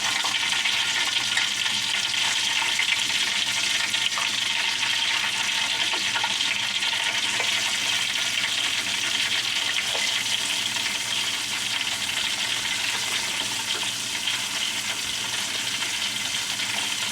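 Flour-dredged chicken strips frying in hot oil: a steady sizzle with faint crackles, easing slightly in the second half.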